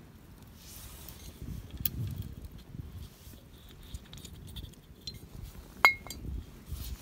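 Drinkware and camp tableware being handled: light knocks and taps, then one sharp ringing clink about six seconds in.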